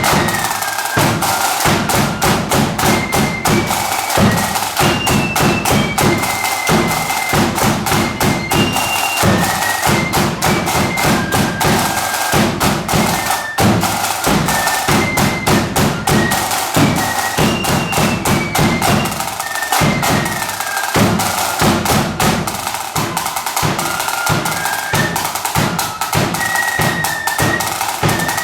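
Marching flute band playing a tune: flutes carry a high melody over rapid, continuous snare drumming and bass drum beats.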